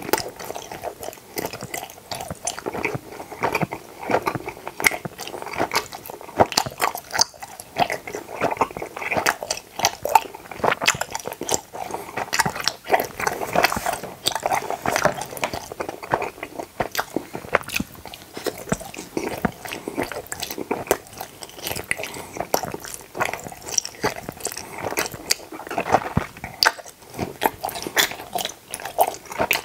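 A person chewing teeth-shaped gummy candies close to a clip-on microphone: continuous mouth sounds made of many small, irregular clicks and smacks.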